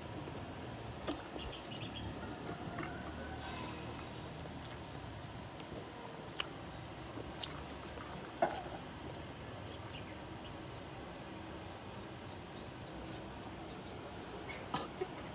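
Small birds chirping in the background, with a quick run of about eight chirps near the end, over a steady low background noise. A few sharp clicks break in, the loudest about eight seconds in.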